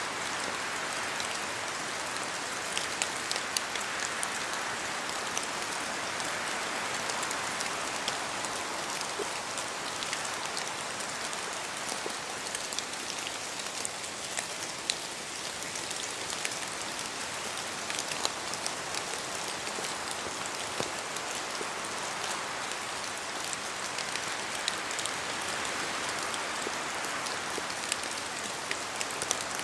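Steady rain falling on forest leaves, with many separate drops dripping from the trees and ticking close by. The hiss swells and eases slowly, as if gusts of wind are stirring the canopy.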